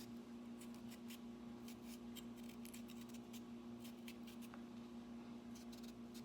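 Irish potato being peeled: a quick, irregular run of short, light scraping strokes of the blade against the skin. A steady low hum runs underneath.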